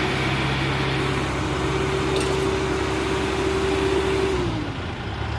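Heavy vehicle engine running steadily under throttle, then its pitch falls as it is throttled back toward idle about four and a half seconds in.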